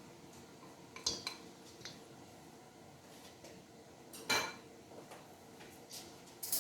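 Mixing bowl and utensil clinking and knocking a few times, the loudest about four seconds in, as the beaten egg-and-milk mixture is poured into a well of flour for noodle dough.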